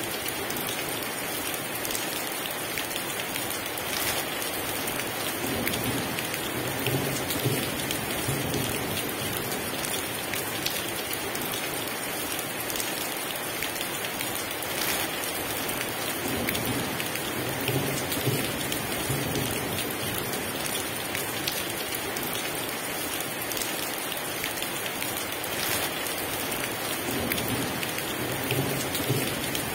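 Heavy rain falling steadily, with low rumbles of thunder three times, about every ten seconds.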